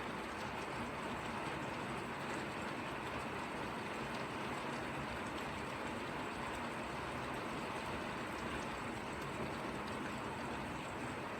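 Steady light rain falling, an even hiss that does not change.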